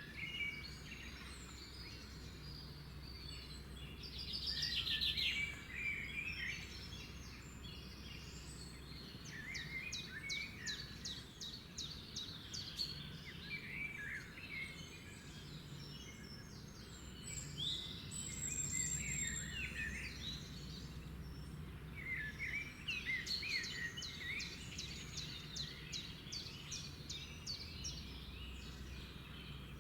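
Several birds singing and chirping together, a chorus of short chirps, rapid trills and quick rising notes, over a steady low background rumble.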